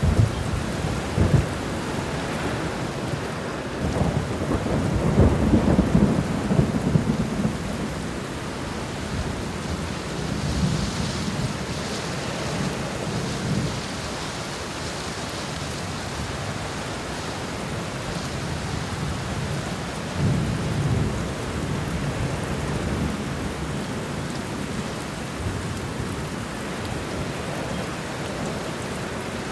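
Steady heavy rain with rolling thunder: a crack right at the start, the loudest long rumble about four to eight seconds in, and further lower rumbles around twelve and twenty-one seconds in.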